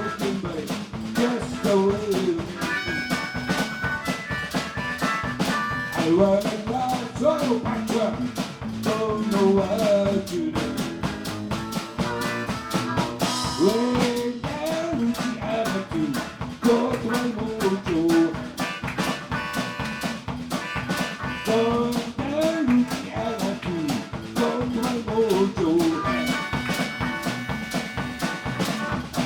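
A live blues band playing a song with a drum kit, the melody lines bending in pitch.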